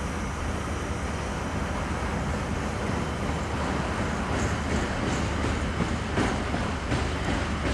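Train hauled by a KiwiRail EF-class electric locomotive running on the rails: a steady rumble with a few sharp clicks in the second half.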